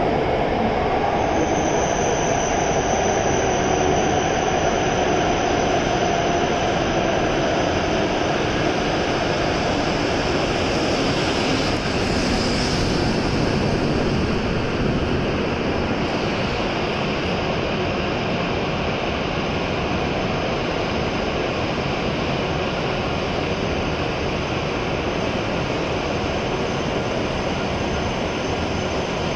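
E7 series Shinkansen train running into the platform and slowing to a stop, a steady rushing rumble of wheels and air as the cars pass close by, with a thin high whine above it. The noise eases slightly toward the end as the train slows.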